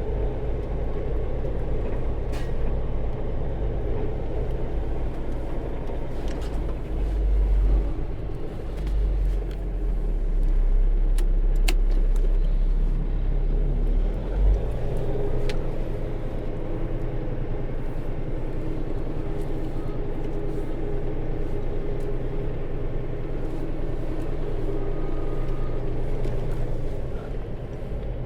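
Semi truck's diesel engine running steadily, heard from inside the cab, with a low rumble that swells for several seconds partway through and a few light clicks.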